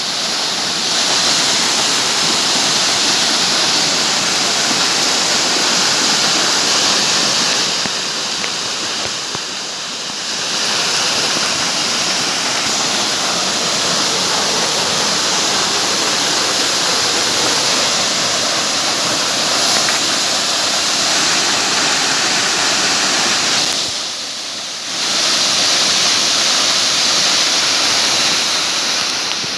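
Waterfall water pouring and splashing in a steady, loud rush. It briefly drops quieter twice.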